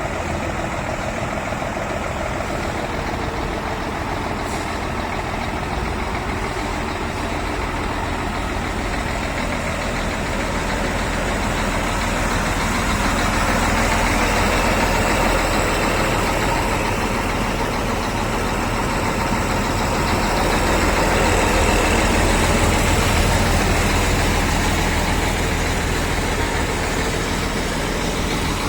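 Scania R 360 truck's diesel engine running at idle, steady, swelling a little louder twice for a few seconds.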